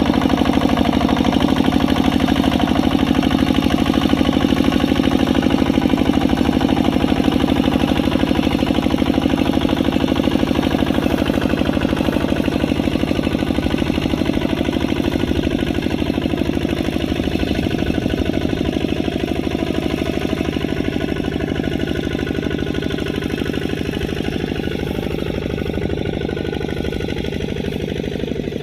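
Kubota RT140 single-cylinder diesel engine running steadily at work, with a rapid, even knock of firing pulses. It grows gradually fainter toward the end.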